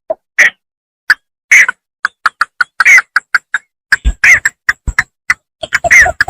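Bittern (bambangan) calling from rice fields: short clipped notes, some in quick runs of about four a second, broken by louder, harsher drawn-out calls with a bending pitch, each separated by dead silence.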